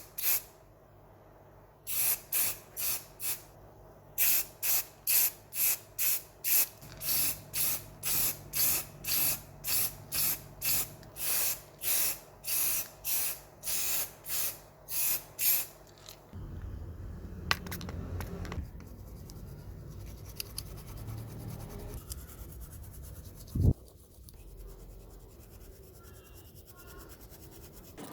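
Spray paint hissing from a nozzle in short, evenly spaced bursts, about two a second, which stop about two-thirds of the way through. A lower, steadier rustling noise follows, with one sharp knock near the end.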